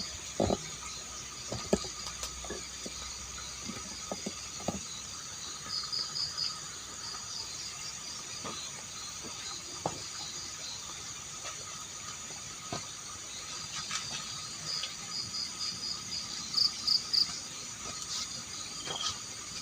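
Night insect chorus in forest: a steady high-pitched drone of insects, with crickets chirping in rapid pulsed trains now and then, loudest near the end. A few faint short clicks are scattered through it.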